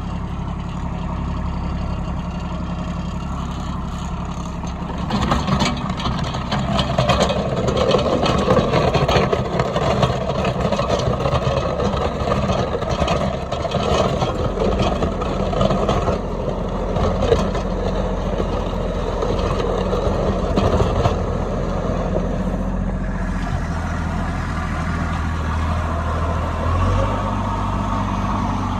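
Kubota B2601 compact tractor's three-cylinder diesel engine running while a rear blade pushes and scrapes snow over gravel. The sound swells about five seconds in into a noisier stretch of scraping and rattling under load, then eases back to a steadier engine run for the last several seconds.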